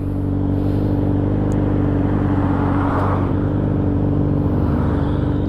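Motorcycle engine running at a steady speed while cruising, heard from the rider's own bike with road and wind noise. A rush of noise swells and fades about halfway through.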